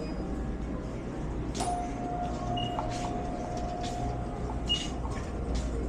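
Background ambience inside a truck stop store: a steady low hum with faint murmur and scattered clicks and clatters, and one steady electronic tone like a beep held for about three seconds, starting about a second and a half in.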